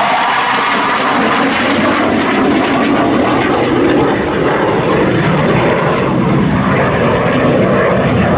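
Dassault Super Étendard jets flying past, their Atar turbojets making a loud, continuous engine noise whose pitch slowly shifts.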